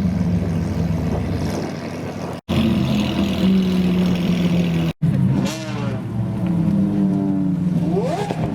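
Supercar engines idling with a steady low hum, and a car revving up sharply as it accelerates twice, about five seconds in and again near the end. The sound drops out for an instant twice at edit cuts.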